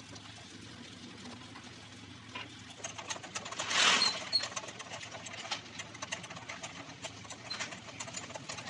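Metal hand tools clicking and clinking on engine parts in quick, irregular strokes, with a short hiss about four seconds in.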